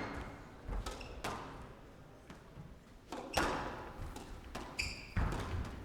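Squash rally: the ball struck by rackets and smacking off the walls, several sharp hits a second or two apart, with a short high squeak near the end.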